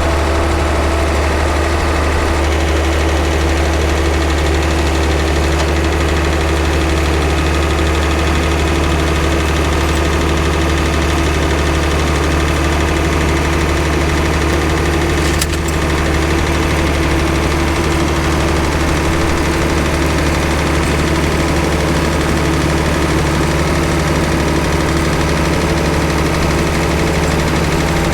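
International Harvester 656 tractor engine running steadily at one speed, with one brief click about halfway through.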